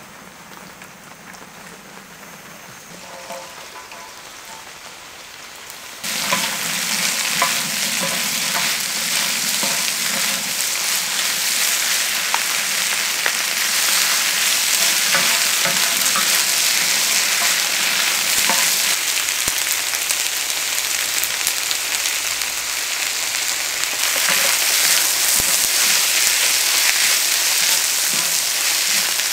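Food sizzling in hot oil in a pan. The sizzle starts suddenly about six seconds in and goes on steadily, with scattered crackling pops.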